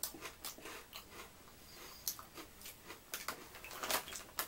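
A person chewing a mouthful of crunchy ripple-cut potato chips, with irregular crisp crunches that are densest and loudest about four seconds in.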